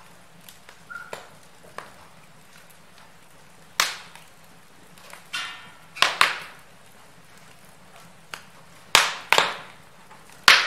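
Wood fire in a fireplace crackling: irregular sharp pops and snaps over a faint steady hiss, a few loud snaps standing out, two close together a little past the middle and one near the end.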